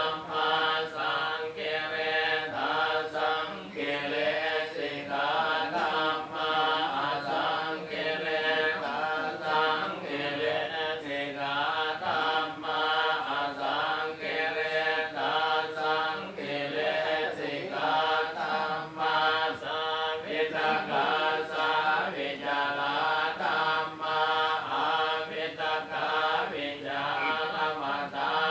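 Buddhist chanting in Pali by several voices reciting together in a steady, unbroken drone, with no pauses throughout.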